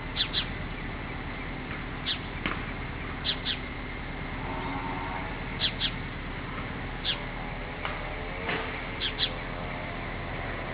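Short high bird chirps, mostly in pairs every second or two, over a steady hiss from a small camera microphone. A faint pitched hum comes and goes a little before the middle.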